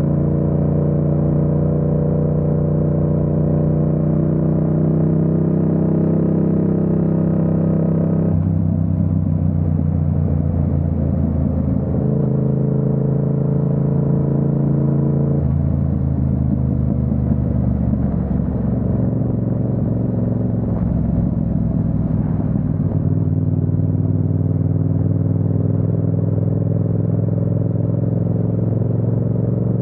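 Yamaha MT-07's parallel-twin engine running under way, its note holding steady and then changing abruptly in pitch and load about 8, 12, 15 and 23 seconds in.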